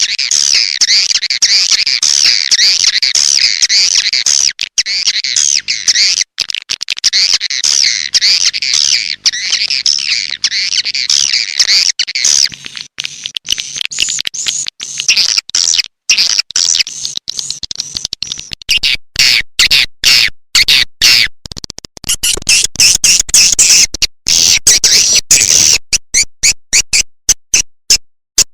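Swiftlet lure-call recording: dense, rapid, high-pitched twittering of swiftlets, giving way about two-thirds of the way through to fast trains of sharp clicking pulses.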